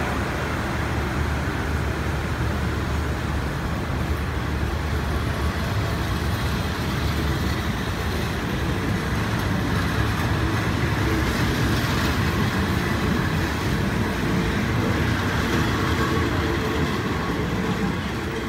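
Passenger coaches of a departing express train rolling past along the platform: a steady rumble of wheels and bogies on the rails, easing off slightly near the end as the last coach draws away.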